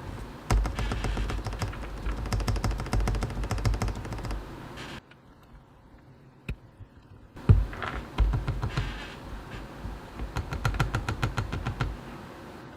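Typing on a mechanical keyboard with lubed Gateron Milky Yellow linear switches and PBT keycaps (a CannonKeys Practice 65 v2 kit): rapid runs of key clacks, stopping for about two seconds halfway through before the typing resumes.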